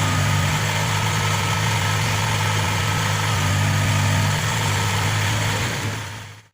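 Maxxi NDR 85 Turbo combine harvester's engine running steadily with a deep hum, fading out near the end.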